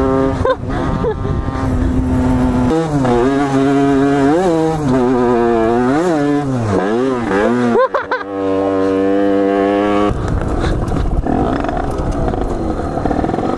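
Small motorcycle engine running at steady revs, then revved up and down several times in quick swings. It drops off briefly near the middle, then holds steady again, with a rushing noise taking over in the last few seconds.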